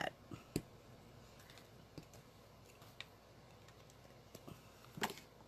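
A few light, scattered clicks and taps of small craft tools and supplies being handled on a tabletop.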